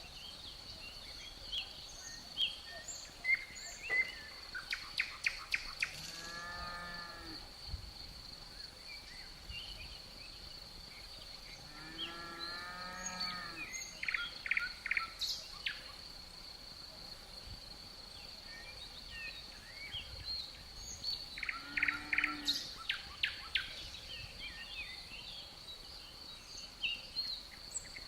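Forest ambience: a steady high cricket trill under scattered bird chirps and quick trilled phrases, with a low, drawn-out animal call heard three times.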